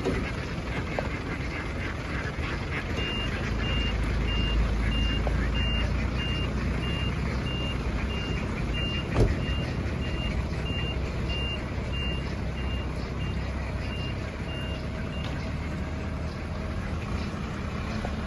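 Truck reversing alarm giving evenly spaced high beeps for about twelve seconds over a low engine rumble, with one sharp knock about halfway through.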